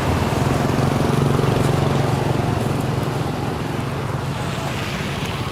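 A motor vehicle engine passing on the road, its hum growing loudest about a second in and then slowly fading.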